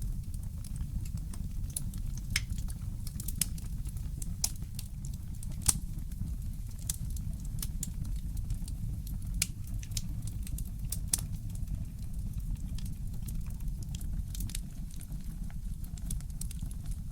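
Fireplace crackling: irregular sharp snaps and pops, a few louder than the rest, over a steady low rumble.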